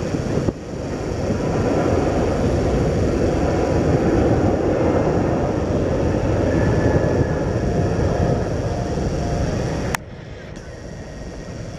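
Airbus A380's jet engines, a steady loud rumble. The sound breaks off abruptly about half a second in and again near the end, dropping to a quieter rumble.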